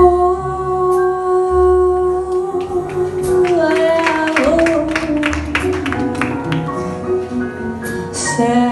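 Jazz ballad passage: a long held melody line, with slow pitch slides, over bass notes and light percussive strokes.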